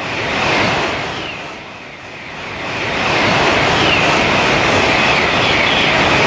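Shinkansen train running past: a rush of noise that swells and fades over the first two seconds, then builds to a steady, loud rushing rumble from about three seconds in.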